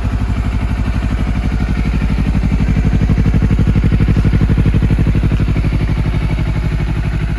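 Honda CBR250RR (MC51) parallel-twin engine idling through a Moriwaki slip-on muffler: a steady, evenly pulsing exhaust note that grows a little louder for a few seconds in the middle, then eases back.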